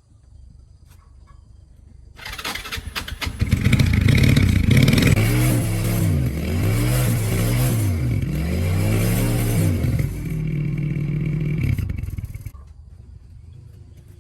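Win 100cc motorbike engine started, catching with a clatter about two seconds in, then revved up and down about four times before settling and dying down near the end.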